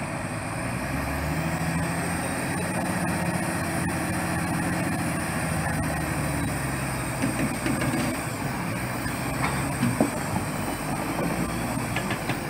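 Heavy truck engine running at steady revs, picking up slightly about a second in, with a faint high whine above it. A few sharp knocks come near the end.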